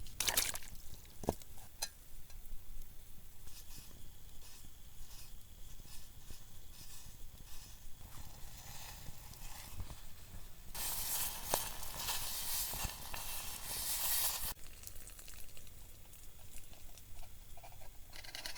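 Food sizzling over a campfire, with scattered clicks and small knocks. About eleven seconds in, a louder hiss starts suddenly, lasts some three and a half seconds and cuts off.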